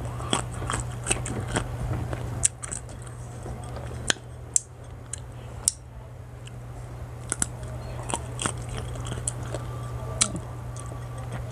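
Close-up crisp crunching and chewing of unripe green mango slices, with sharp clicks of bites scattered through, over a steady low hum.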